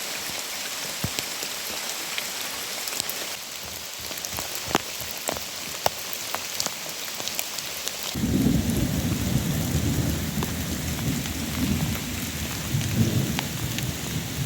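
Heavy rain falling steadily, with big drops cracking sharply close by. About halfway through, thunder begins to rumble low and carries on.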